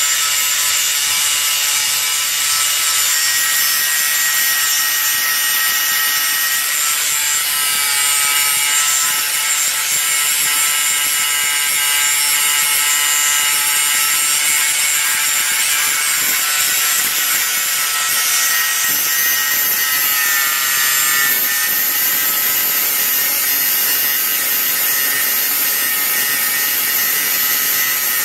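Power grinder grinding down a fresh weld on a motorcycle exhaust pipe: a steady high whine over a harsh grinding hiss, the pitch dipping briefly about twenty seconds in.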